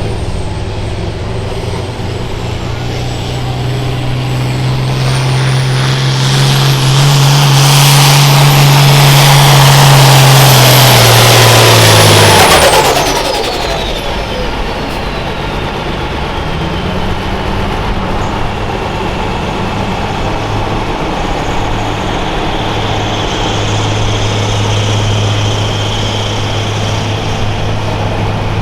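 Turbocharged diesel engine of a farm pulling tractor running hard under full throttle, building in level with a rising high turbo whine. About halfway through the throttle comes off suddenly, the whine winds down, and the engine settles to a lower, steady run.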